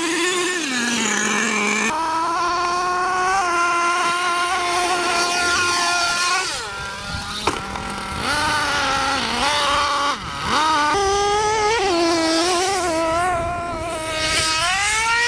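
Small two-stroke engine of an RC monster truck running hard, its pitch rising and falling as the throttle is worked, with a sharp knock about seven and a half seconds in and a climbing rev near the end.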